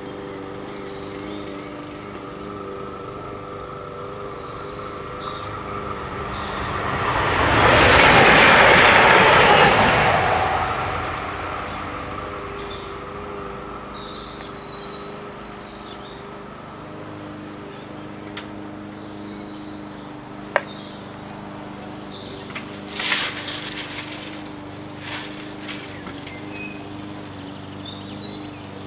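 Westfalenbahn Stadler FLIRT electric multiple unit passing over the level crossing, its noise swelling to a peak about eight seconds in and fading away within a few seconds. Crickets chirp in the background, and a click and a few short knocks come later, as the crossing barriers go back up.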